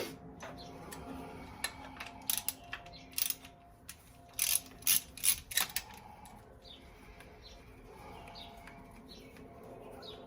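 Ratchet wrench clicking in several short spurts, a few quick strokes at a time, as engine bolts are worked loose. The loudest spurts come about halfway through.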